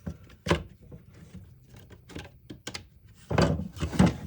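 Clicks and knocks of a disassembled power saw's parts being handled and set down, with a denser, louder clatter near the end.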